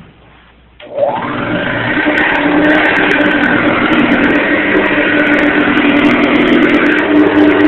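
Hoover Model 700 upright vacuum cleaner switched on about a second in: its motor spins up with a rising whine and then runs loud and steady. Sharp clicks come through the running noise: something inside the machine is hitting, a fault the owner cannot explain.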